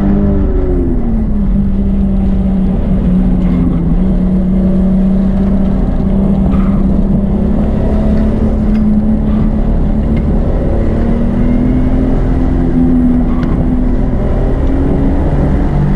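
Car engine running hard under load, heard from inside the cabin over road and wind noise. Its note falls about a second in, holds steady, slowly climbs, then drops again near the end.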